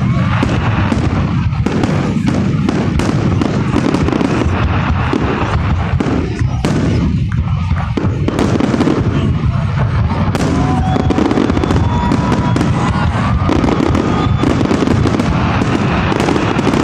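Aerial fireworks bursting in a dense, continuous barrage: rapid overlapping bangs and crackling, loud throughout. A few thin whistling tones ride over it in the second half.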